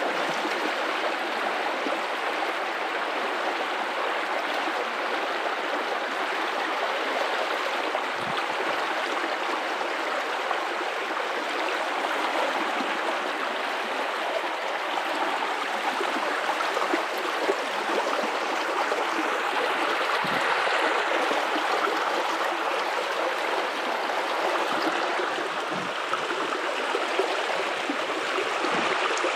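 River water running over rocks in a steady rushing flow, with small gurgles here and there.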